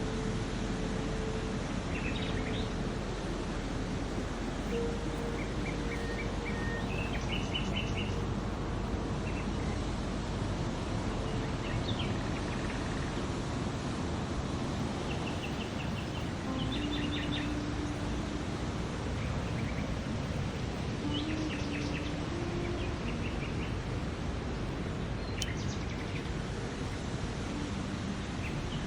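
Small birds chirping in short scattered phrases over a steady rushing background noise, with a few soft held tones that step in pitch underneath.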